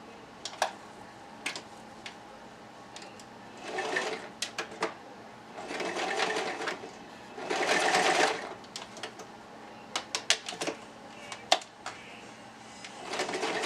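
Domestic sewing machine stitching hair tracks onto a wig cap in short runs of about a second each, four times, with sharp clicks between the runs.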